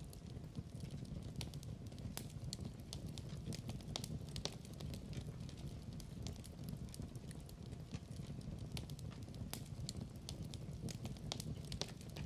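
Wood fire in a fireplace crackling, with frequent sharp snaps and pops over a steady low rumble of flames.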